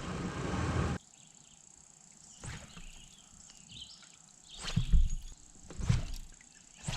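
A steady rushing noise cuts off abruptly about a second in, leaving quiet outdoor ambience with a few faint bird chirps. Near the end come three dull thumps, the loudest sounds here.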